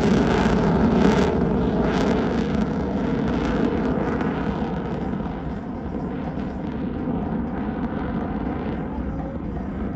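F-22 Raptor's twin Pratt & Whitney F119 turbofan jet engines, a loud rushing jet noise that dies down over the first five seconds, then holds steady and lower.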